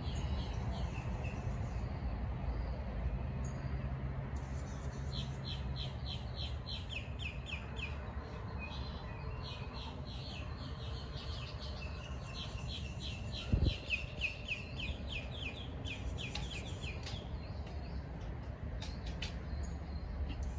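A songbird singing in several runs of quick descending notes, about four or five a second, over a steady low rumble. A single knock about two-thirds of the way through.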